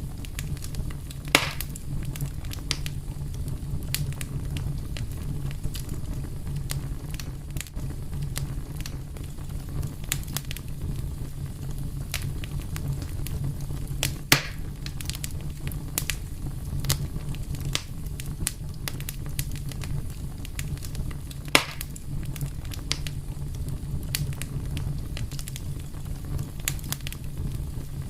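Fire crackling over a steady low rumble, with many small ticks and three louder pops: one about a second in, one midway, and one about three quarters of the way through.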